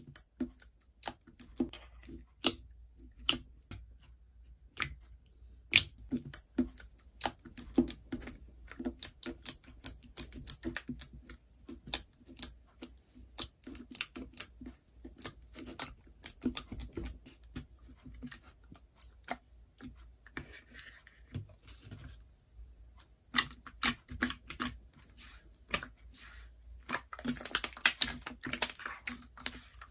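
Irregular run of sharp clicks and taps, like fingers typing on a keyboard, pausing for a couple of seconds past the middle and growing denser and more crinkly near the end.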